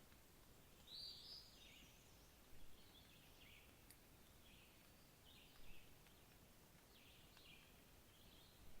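Faint songbird song: short, bright phrases repeated every second or two over a quiet background hiss.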